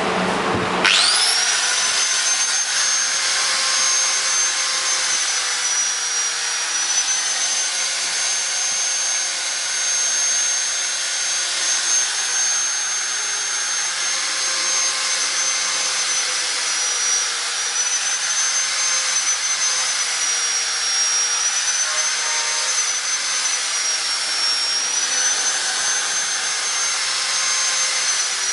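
A small high-speed electric power tool starts up with a quickly rising whine about a second in, then runs steadily with a high tone that dips slightly now and then under load as it trims the sharp edges off square bird-cage bars.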